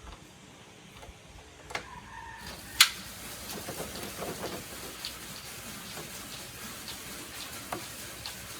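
Scattered light ticks and clicks over a steady hiss, with one sharp click about three seconds in.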